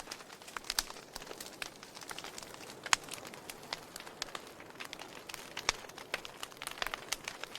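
Logs burning in a fireplace, crackling with irregular sharp pops over a soft hiss. The loudest pops come about three seconds in and again near six seconds.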